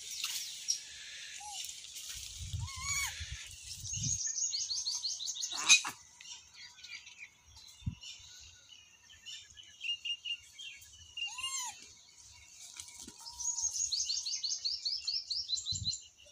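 Birds chirping: quick runs of high repeated notes about four seconds in and again near the end, with a few short, lower arched calls in between.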